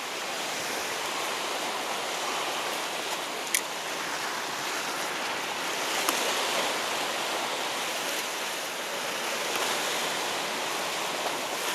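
Sea surf washing steadily against the shore, with two faint clicks about a third and halfway through.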